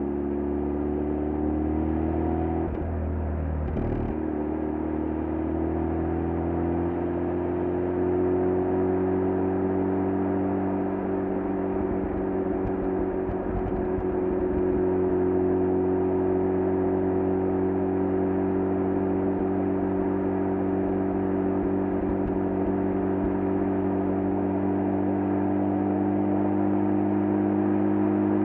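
Mazda FD3S RX-7's 13B-REW twin-turbo rotary engine heard close at its stock muffler under acceleration: the exhaust note rises in pitch, breaks briefly about three seconds in as it shifts, then climbs again and settles into a steady drone.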